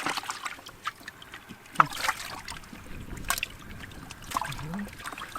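Irregular splashing and sloshing of muddy water, a scatter of short wet splashes, from hands groping in mud and shallow water for fish.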